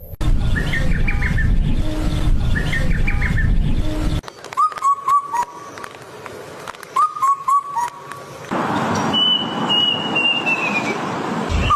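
Birds calling in a few short spliced recordings. First come twittering chirps over a steady background hiss. About four seconds in, groups of short, clipped whistled notes repeat. Near the end comes one long, slowly falling whistle.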